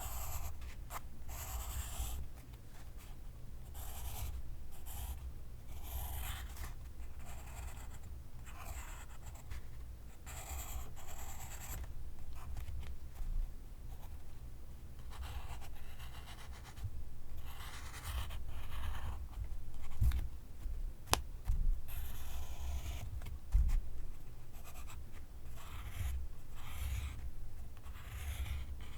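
Pencil writing on paper, close up: scratchy strokes in short runs, with a pause of a few seconds midway and one sharp tick about 21 seconds in.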